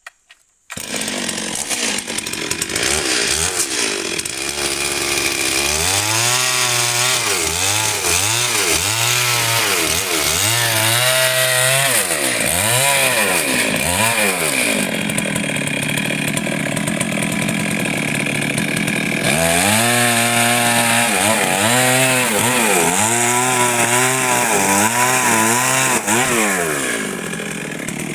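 Stihl MS 382 two-stroke chainsaw running loud, its engine pitch rising and falling about once a second as the throttle is worked in the cut, with a steadier stretch of a few seconds in the middle.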